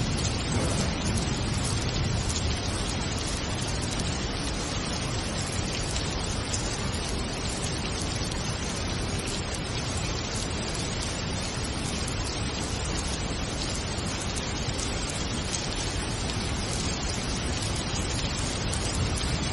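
Steady heavy rain: a dense, even hiss of falling rain with no single drops or breaks standing out.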